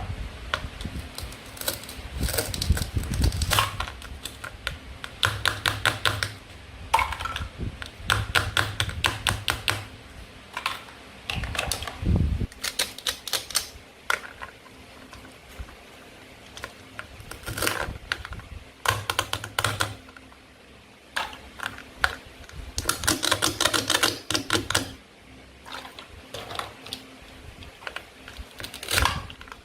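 Toy play-food fruits and vegetables being cut apart with a toy knife: repeated short bursts of rapid crackling clicks, some with dull knocks underneath.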